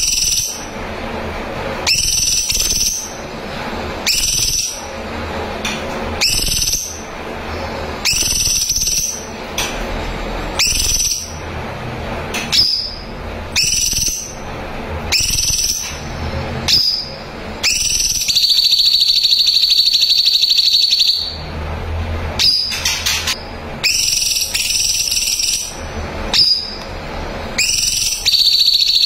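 Cucak cungkok singing in a steady repeated pattern: short high call phrases about every two seconds, broken twice by a long, even, high trill lasting about three seconds, the second near the end. A faint low hum runs underneath.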